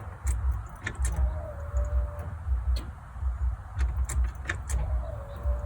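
Electric fuel pump of a '92 Ford F-150 whining briefly twice as the ignition key is cycled to prime it, each run a tone that slides into a steady pitch for about a second. It is the pump building pressure in the newly fitted fuel lines, with keys clicking and jingling at the ignition.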